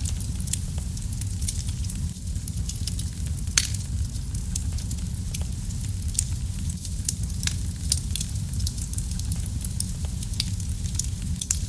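Wood fire burning in a fireplace: a steady low rumble of flames with frequent small crackles and pops, one sharper pop about three and a half seconds in.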